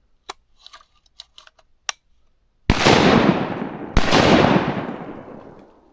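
Two shotgun blasts about a second and a half apart while duck hunting, each followed by a long rolling echo that fades away. A few faint clicks come before the shots.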